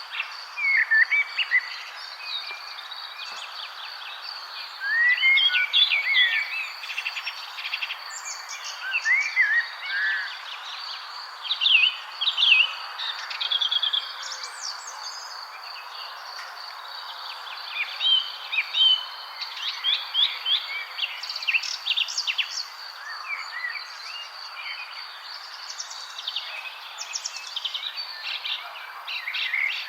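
Several songbirds chirping and singing in overlapping quick rising and falling phrases, busiest in a few flurries. Under them runs a steady high insect trill.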